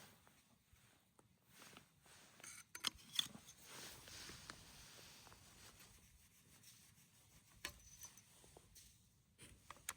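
Faint rustling and handling noises from pitching a canvas military tent, with a few sharp clicks, the loudest about three seconds in.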